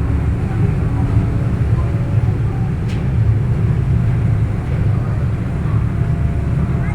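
A ferry's engines running with a steady, loud low drone, and a single sharp click about three seconds in.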